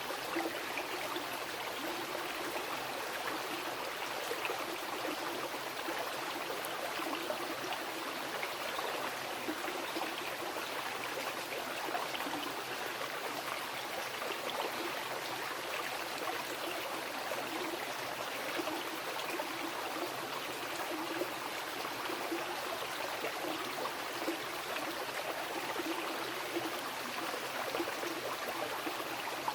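Mountain river rushing over rocks: a steady, even flow of water with small splashes and gurgles.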